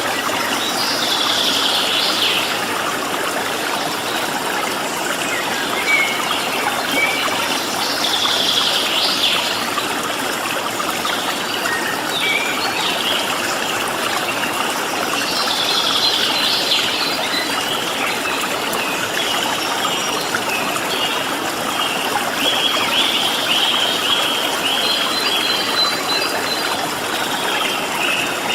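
Water flowing steadily in a stream, with small songbirds calling over it: a few short sweeping calls, then a rapid run of quick, even notes from about two-thirds of the way in.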